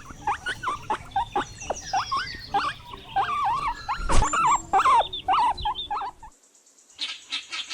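Guinea pig squeaking: a quick run of short squeaks and chirps, some rising and some falling in pitch, with one sharp knock about four seconds in. It cuts off suddenly about six seconds in.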